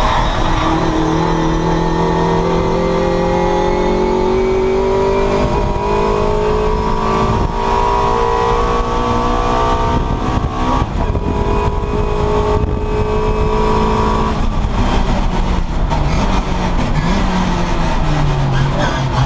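Classic Mini race car's four-cylinder engine heard from inside the cabin, pulling hard and climbing steadily in revs for about ten seconds, dipping briefly at a gear change, climbing again, then easing off to lower, uneven revs for a corner near the end.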